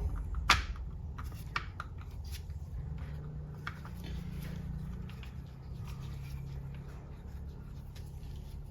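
Light clicks and taps of a transmission control unit being pressed and clipped onto the solenoids of a ZF 8HP70 mechatronic valve body, with one sharp click about half a second in, over a steady low hum.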